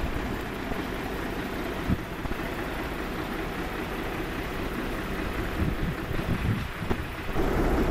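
Fire engine idling steadily, with a single brief knock about two seconds in.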